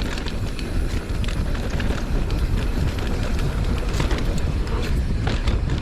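Mountain bike riding fast down a dirt trail: a steady rumble of tyres over dirt and stones, with frequent clicks and rattles from the bike over bumps.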